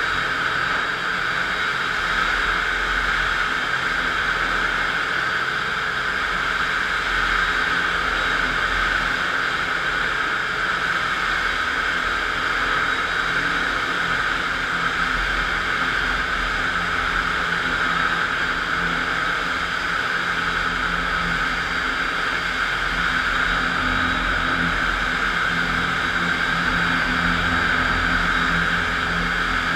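FastPrep concrete floor grinder, driven by an electric motor, running steadily as its diamond grinding plates cut a concrete floor, a constant even grinding noise with a low hum underneath.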